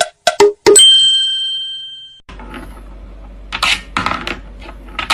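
The end of a rhythmic clicking beat. Then a single bright metallic ding rings out and fades over about a second and a half. After that comes a low hum with scattered light rustles and clatters.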